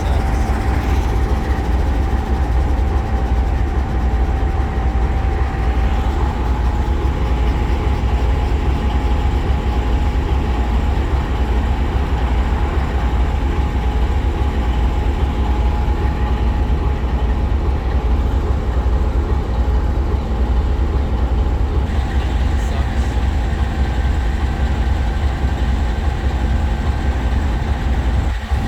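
Diesel freight train at close range, its locomotive engines and cars giving a loud, steady, deep rumble that does not change.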